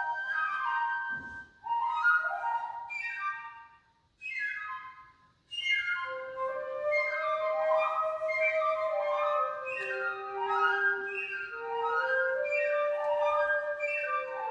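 A trio of piccolo, flute and alto flute playing: three short phrases of quick falling runs, each broken off by a brief pause, then from about six seconds in, held, overlapping notes, with the alto flute sustaining the lowest line beneath the higher two.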